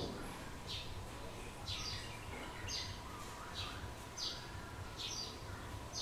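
A small bird's short, high, downward-sliding chirp, repeated steadily about once every second, over a faint steady hum.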